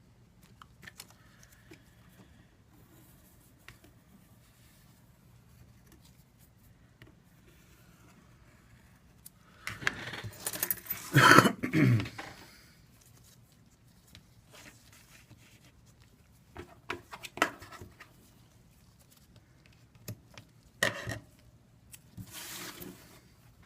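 Double-sided sticky tape being handled, pulled and cut as it is applied: faint ticks and rustles, a louder noisy burst of a couple of seconds about ten seconds in, then a few sharp clicks and a short rustle near the end.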